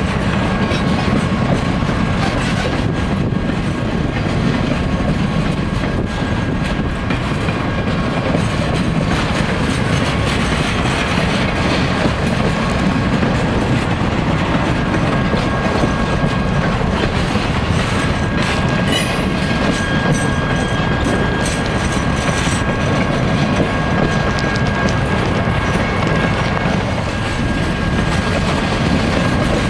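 Triple Crown RoadRailer trailers rolling past on their rail bogies: a steady rolling rumble with wheels clicking over rail joints. A faint thin squeal comes and goes.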